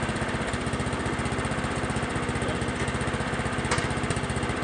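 A 12-horsepower Craftsman lawn tractor engine running steadily, with a rapid, even firing beat.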